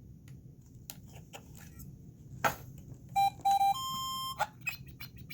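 Electronic talking bingo toy (Big Bird's Talking Bingo) beeping through its small speaker: a sharp click about halfway, then two short beeps and a longer, slightly higher beep, with scattered small clicks throughout.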